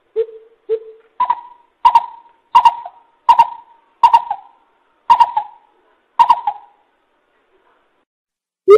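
Greater coucal (chim bịp) lure call: a series of deep hooting notes, two lower ones followed by seven higher ones roughly every 0.7 seconds, each with a sharp start, stopping about two seconds before the end.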